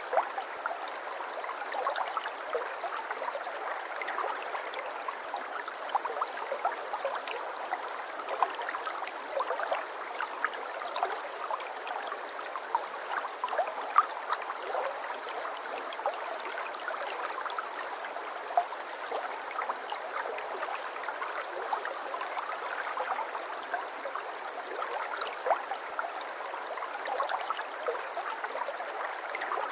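Babbling brook: shallow water running steadily over stones, with constant small splashes and gurgles.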